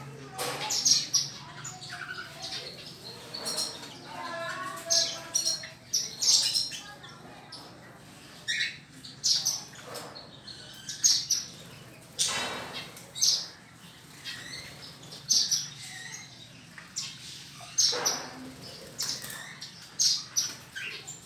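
Zebra finches and a canary chirping and calling repeatedly in short calls, with brief bursts of wing-fluttering and splashing as the birds bathe in water.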